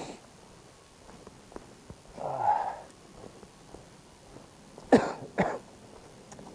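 A person coughs twice in quick succession, the two coughs about half a second apart. A shorter throat-clearing sound comes a couple of seconds before them.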